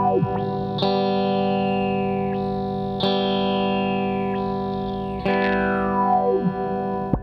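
Electric guitar chords played through a Retrohead Cosmic Phaser pedal, struck three times about two seconds apart and left to ring. The phaser's sweep rises and falls through each chord.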